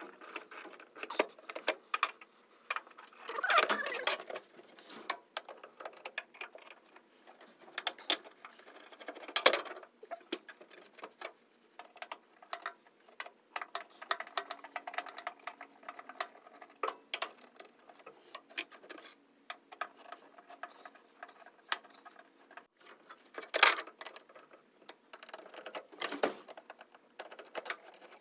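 Hand tools clicking, ticking and scraping irregularly against the car's floor and its fittings, with a few louder scrapes along the way.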